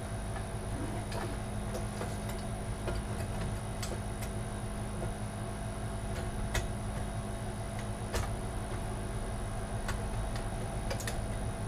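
Occasional light clicks and taps of computer cards and case parts being handled and fitted, over a steady low hum and a faint high whine.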